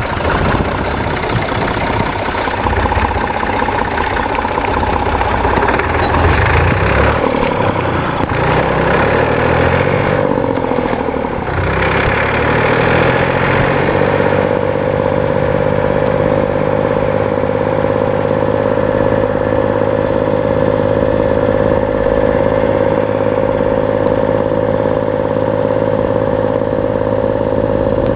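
Massey Ferguson 135's 2.5-litre three-cylinder Perkins diesel engine running, its pitch rising and falling as it is revved through the first half, then settling to a steady, even speed for the rest.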